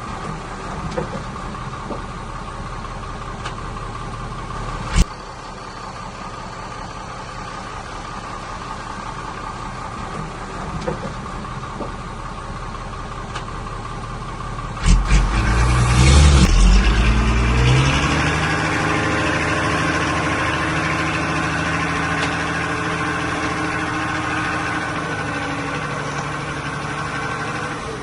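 Diesel engine of heavy earthmoving machinery running steadily at low speed, with a sharp knock about five seconds in. About fifteen seconds in there is a loud clatter, and the engine revs up and then runs on louder at higher speed.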